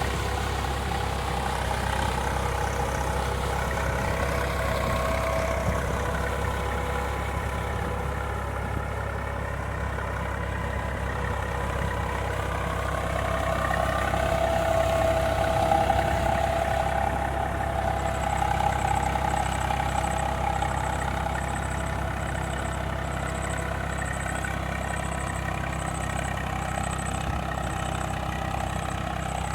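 Tractor engine running steadily, getting louder for a few seconds around the middle. A faint high-pitched pulsing tone comes in just after the middle.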